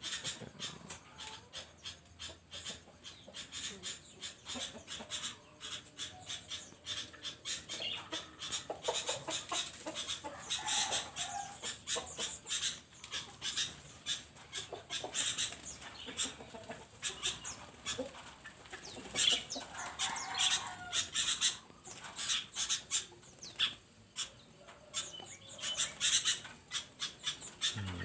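Many small caged birds chirping and chattering together in rapid, overlapping calls.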